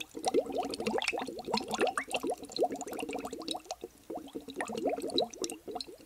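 A crowd of small animals calling at once: many short, overlapping squeaks and chirps, several a second, some gliding up or down in pitch.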